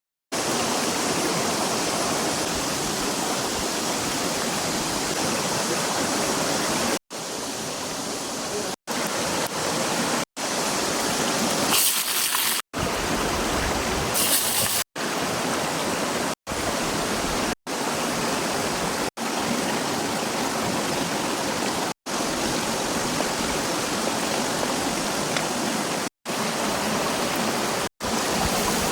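Steady hissing noise, broken by brief sudden drop-outs every second or few from about seven seconds in, with two short brighter, higher hisses around the middle.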